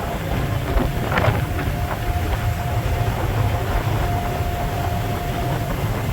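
Passenger ferry's engine running: a steady low rumble with a faint steady whine above it and a few brief knocks.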